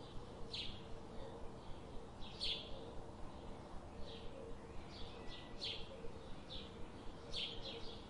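Songbird chirping: about ten short, sharp chip notes scattered irregularly, several in quick succession near the end, over a steady low outdoor hum.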